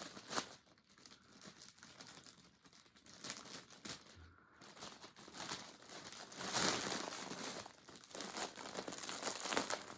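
Plastic bag crinkling and rustling as yarn skeins are handled and packed into it, quieter at first and louder in the second half.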